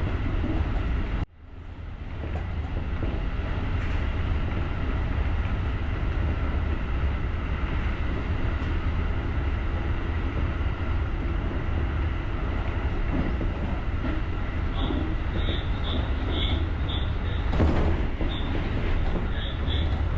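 JR electric rapid commuter train running along the line, a steady low rumble of motors and wheels on rail. The sound drops out abruptly about a second in and fades back up. Near the end there is a brief louder swell, and a series of short, evenly repeated high tones.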